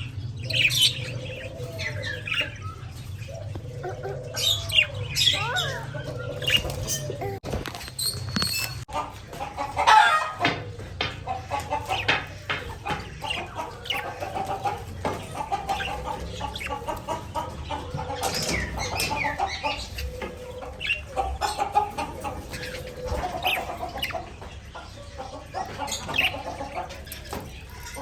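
Pet budgerigars chirping and chattering in short gliding calls, over many small irregular pecking clicks as they eat egg.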